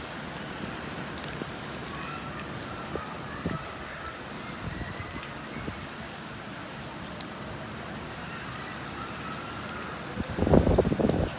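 Steady rain falling on leaves, an even hiss. Near the end comes a loud burst of low buffeting noise lasting about a second.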